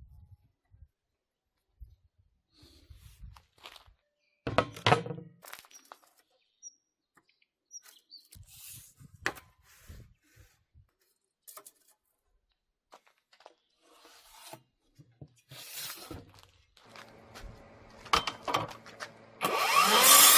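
Workshop handling sounds: scattered knocks and clicks of parts being set down and fitted, with a louder clatter about five seconds in. Near the end a power tool's motor starts and spins up with a rising whine.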